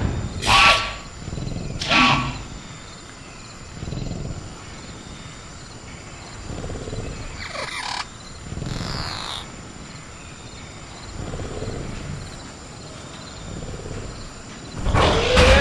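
Creature sound-effect ambience of a caged velociraptor: two sharp clangs with a metallic ring in the first two seconds, low growls that come and go, and two falling shrieks about halfway through. A loud sudden burst near the end is the loudest moment. Under it all runs a steady high insect chirr of crickets.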